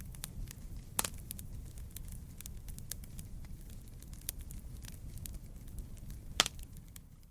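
Wood burning in a campfire, crackling with many small snaps over a low steady rumble. Two louder pops come about a second in and again near the end.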